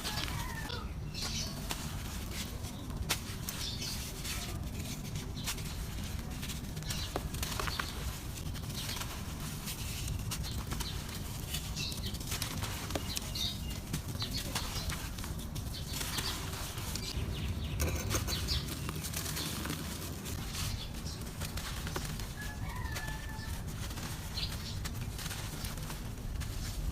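Dry, grainy red dirt crumbling: a dense run of small crackles and crunches over a steady gritty rustle.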